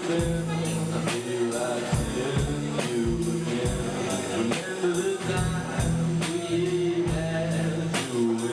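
A band playing a song: a singer's voice over a drum kit keeping a steady beat, with bass.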